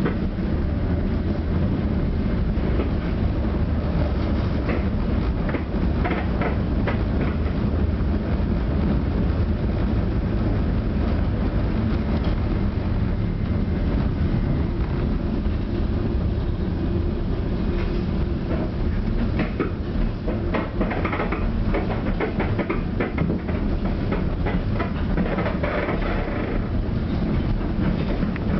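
Tram running along the rails, heard from inside the car: a steady low rumble with scattered clicks and rattles.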